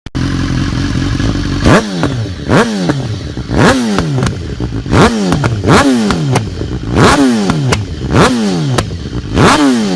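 BMW S1000R inline-four engine through an Arrow aftermarket exhaust. It idles, then from under two seconds in is blipped again and again, about one rev a second, the pitch shooting up and falling back each time.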